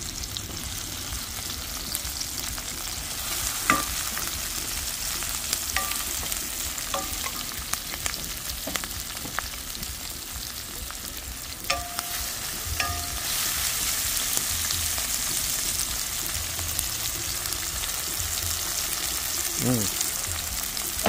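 Diced onions, tomatoes and curry leaves sizzling in hot oil in a stainless steel pan, stirred with a wooden spoon. The spoon knocks against the pan a few times, some knocks leaving a short metallic ring.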